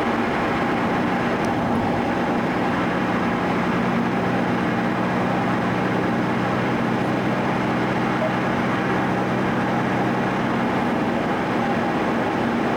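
Steady engine drone and road noise heard inside the cabin of a car cruising at an even speed.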